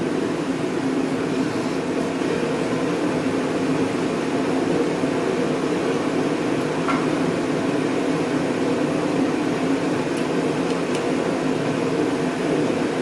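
Steady background machine hum, even and unbroken, with one faint tick about seven seconds in.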